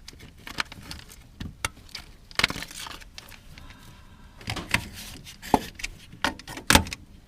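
Irregular clicks, knocks and scraping of hand work on engine parts: tools and components being handled and fitted, with the sharpest knocks near the end.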